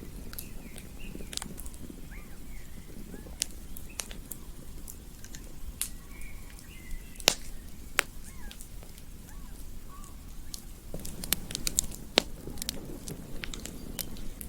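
Campfire crackling: a steady low rumble of burning wood with frequent sharp pops and snaps, a few louder ones now and then, and faint short chirps in the background.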